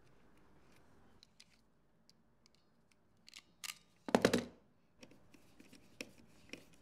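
Light clicks and taps of something being handled, with one loud, short rattling clatter about four seconds in; a faint background hum stops about a second in.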